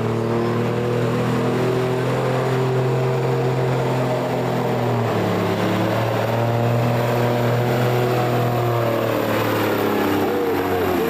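Engine of a pulling vehicle running hard under load, a steady loud drone whose pitch dips about halfway through and swells up and down near the end.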